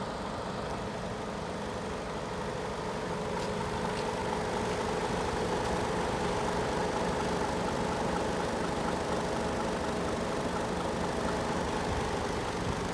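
Mercedes Actros 2545 tractor unit's 450 bhp Euro 6 inline-six diesel engine idling steadily.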